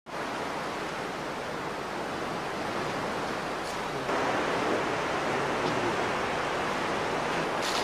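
Steady rushing noise like running water or wind, a film soundtrack ambience, that gets louder about four seconds in, with a few faint ticks.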